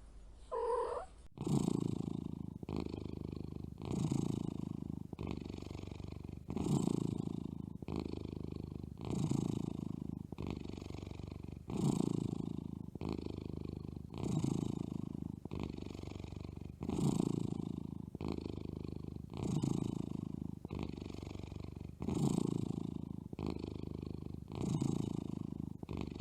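Domestic cat purring steadily and close up. The purr swells and eases in an even rhythm of about one cycle every second and a quarter as the cat breathes in and out.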